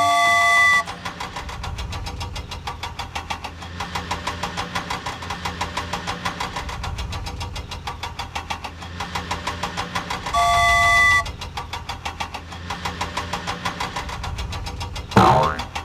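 Vehicle engine running with a rapid, even pulsing rhythm. A horn-like pitched tone sounds twice, at the start and about ten seconds in, and a short, sudden sweep comes near the end.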